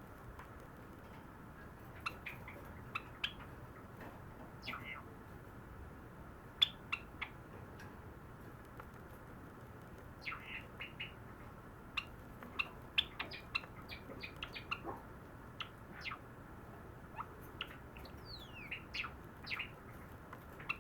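A pet sakura (pied) Java sparrow singing softly: scattered short chirps and clicking notes that come quicker and busier in the second half, with a few quick falling notes near the end.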